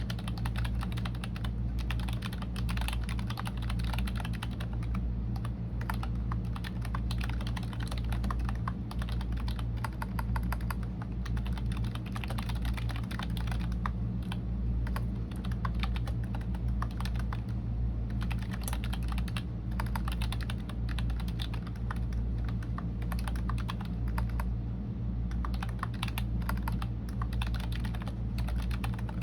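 Continuous typing on a computer keyboard: a dense, uneven stream of key clicks, over a steady low hum.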